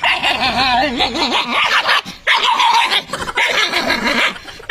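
A dog vocalizing: wavering whines and yips in the first second or so, then two longer, harsher sounds about two and three and a half seconds in.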